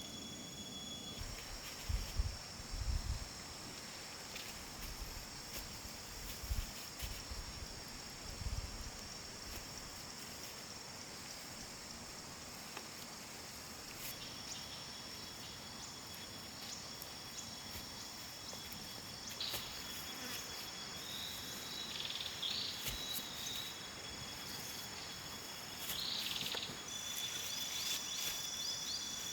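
Insects trilling steadily in high, unbroken tones, a second trill joining about halfway through. A few dull low thumps in the first ten seconds, and some short chirps near the end.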